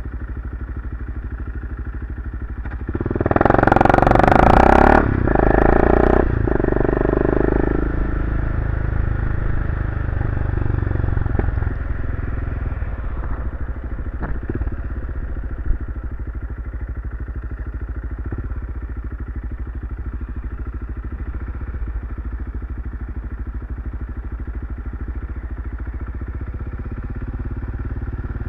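BMW F650CS single-cylinder motorcycle engine running through an aftermarket Barracuda RX-Max slip-on exhaust. It gets much louder in two pushes of about two seconds each, starting around three seconds in, then settles back to a steady cruising note.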